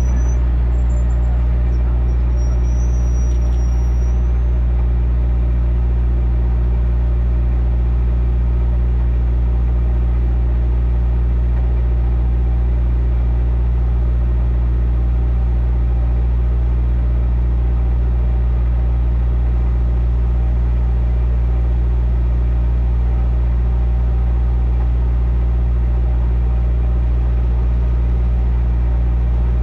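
Peugeot 207 R3 rally car's engine idling steadily while the car stands still, heard from inside the stripped cabin as an even low hum that does not change.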